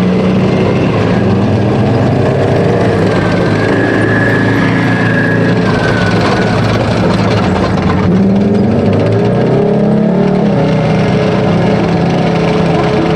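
Type 74 main battle tanks' diesel engines running as the tanks pass, loud and steady, with the engine pitch rising about eight seconds in as they speed up.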